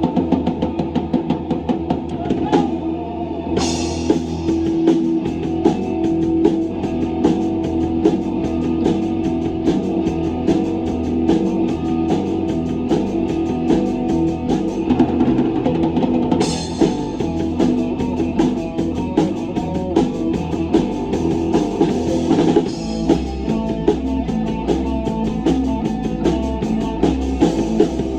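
Live rock band playing an instrumental passage, with a drum kit keeping a steady beat under guitar and bass. Brighter cymbal washes come in about four seconds in and again around sixteen seconds.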